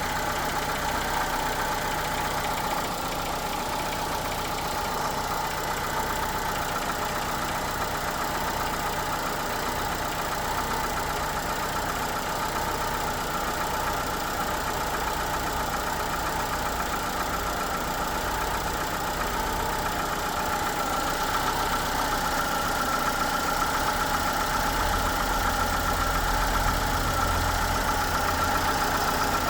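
Citroën C4's TU5JP4 1.6-litre petrol four-cylinder running steadily at idle after a start in near-freezing air, the engine noise the owner is recording. It gets slightly louder, with a deeper hum, in the last few seconds.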